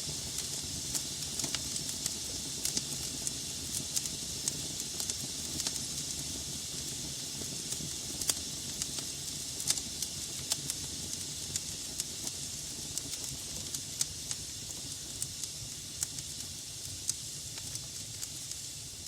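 Log fire burning in a fireplace: a steady hiss of flames over a low rumble, with sharp crackles and pops at irregular moments, a few a second.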